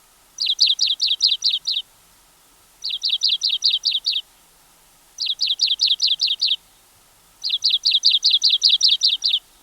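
Richard's pipit calling: four quick runs of high, sharply falling chirps, about seven to ten notes in each run, with short pauses between the runs.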